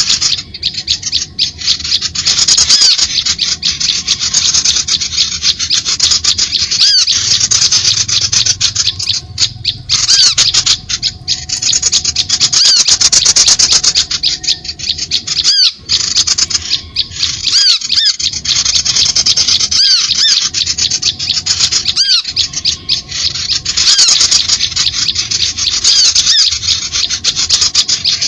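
A dense chorus of small songbirds chirping and chattering: rapid high chips and short repeated whistled notes packed closely together, with only a few brief breaks. It is a bird-lure (pikat) recording, played to draw in wild birds.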